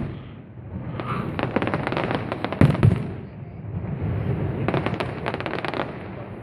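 Fireworks going off: runs of rapid crackling shells, with two heavy booms about two and a half seconds in and another burst of crackling near the end.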